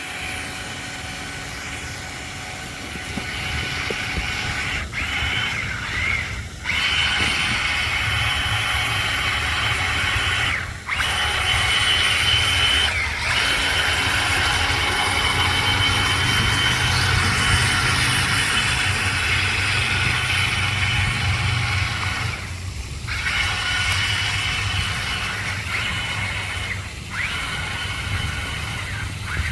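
Electric motor of a Monster Jam Megalodon Storm remote-control monster truck running with a steady high whine and a low rumble. It cuts out briefly several times as the throttle is released, then picks up again.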